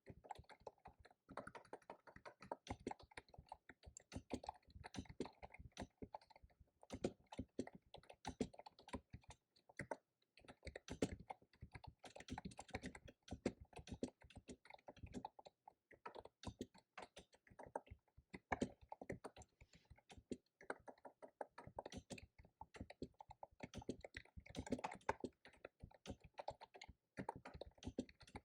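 Fast typing on a computer keyboard: a dense stream of key clicks in runs, with short pauses about ten seconds in and again around twenty-one seconds.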